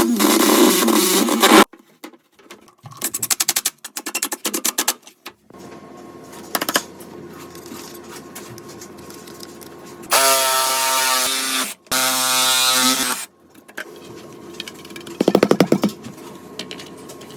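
Power drill running in several short bursts, some a rapid chattering, one a pitched whine, with quieter stretches in between.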